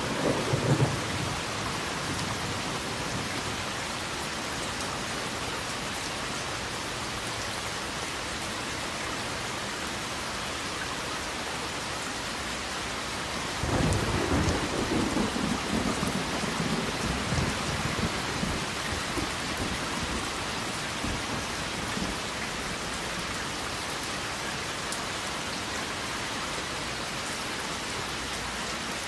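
Steady rain falling, with a rumble of thunder dying away in the first second. About halfway through a sudden thunderclap breaks in and rolls on for several seconds before fading back under the rain.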